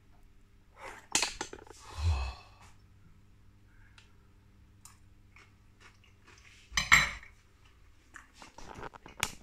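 A metal fork clinking, then a mouthful of cheese-topped tortilla chips being chewed: scattered separate crunches and clicks, with a louder sudden noise about seven seconds in.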